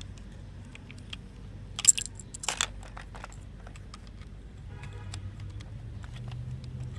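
Plastic Lego bricks clicking and rattling as they are handled and pressed back onto a model, with two louder clatters about two and two and a half seconds in.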